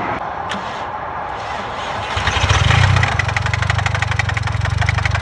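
Audi TT MK1 engine starting about two seconds in, then running with a fast, even knocking, the sign of an engine losing oil pressure and failing.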